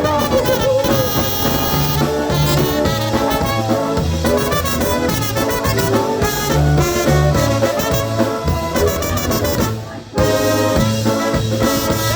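Live polka band playing an instrumental break, horns carrying the tune over a steady oom-pah bass beat. The band stops briefly about ten seconds in, then comes straight back in.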